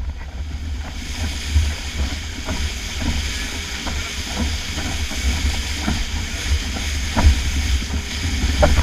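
Wind buffeting the microphone in a loud, uneven low rumble over a steady hiss of water rushing past a 49er skiff's hull as it sails fast in gusty wind, with brief knocks now and then.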